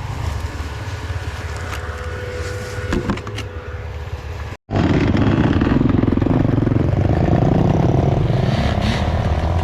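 Enduro dirt bike engine running at a low, steady idle, with a clatter about three seconds in. The sound breaks off briefly about halfway, then comes back louder with the engine revving higher.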